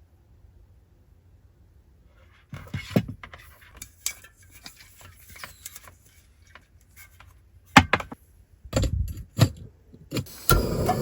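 Irregular clicks, knocks and clatters of small objects being handled, with a few sharper knocks near the end. Just before the end a steady rumbling noise sets in.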